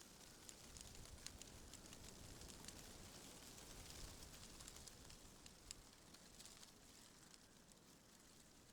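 Faint rustling of tree leaves in the wind, a soft hiss dotted with many small crackling ticks. It swells slightly after the start and eases off again in the second half.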